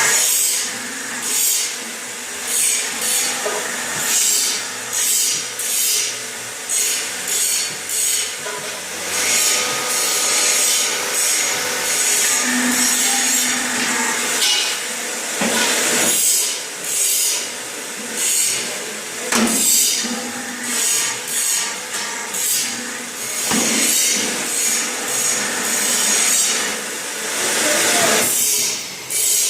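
Hydraulic Lego-brick press at work: repeated scraping and rubbing noises in uneven strokes, about one or two a second, over a faint steady hum.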